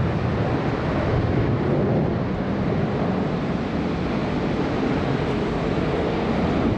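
Boeing 747-400 jet engines: a steady, even rushing rumble.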